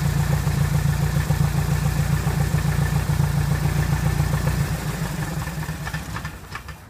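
Piper Apache's piston aircraft engine idling with a steady pulsing beat after a rebuild, then dying away over the last couple of seconds.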